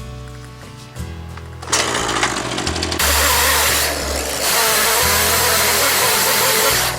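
Background music, joined from about two seconds in by the loud, steady noise of a chainsaw cutting into a log, which eases briefly in the middle and cuts off at the end.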